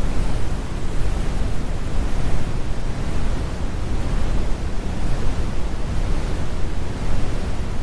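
Computer-generated brown noise: a steady, deep rumbling hiss with most of its weight in the bass and the highs rolled off.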